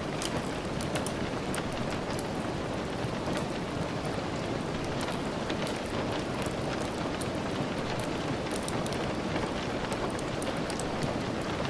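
Steady rain falling, with many scattered sharp ticks mixed in.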